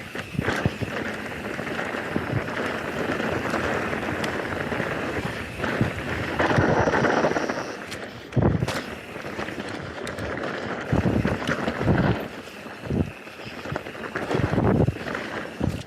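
Mountain bike riding downhill on a dirt trail: wind buffeting the microphone over the rush of tyres on the ground, with several low knocks as the bike hits bumps.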